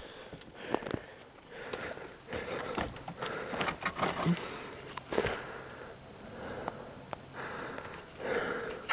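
Footsteps through leaf litter and brush on the forest floor, with irregular rustling and a few sharp snaps.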